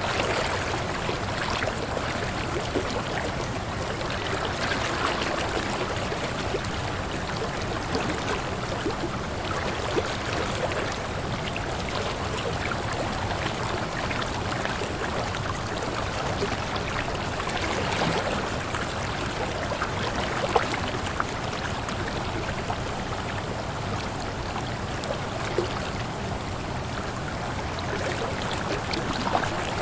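Waterfall: water falling and splashing with a steady rush, scattered small splashes on top.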